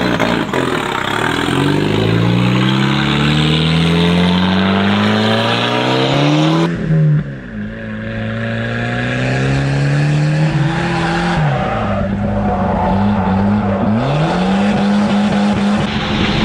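Volvo 940 turbo's turbocharged four-cylinder engine pulling hard, its pitch climbing steadily for several seconds, then held at high revs with three quick drops in revs that climb straight back.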